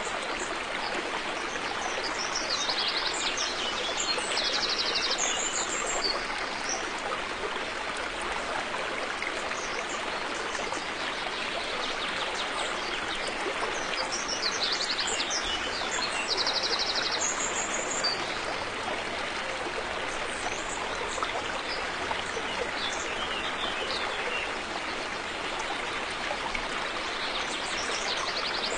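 Steady rushing of a flowing river. Small birds chirp above it, with short rapid trills a few seconds in and again about halfway through.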